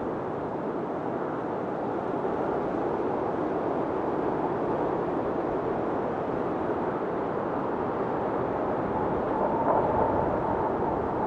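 Blizzard wind blowing steadily in gusts, with a faint wavering howl; the howl rises higher and a little louder near the end.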